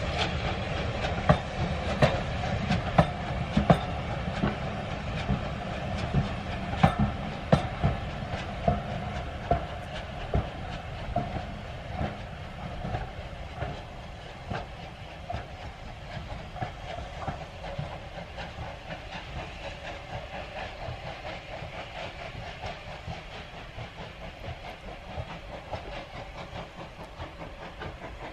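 Heritage railway train passing, its wheels clicking over the rail joints in a rhythmic clickety-clack over a steady rumble. The sound grows fainter through the second half as the train draws away.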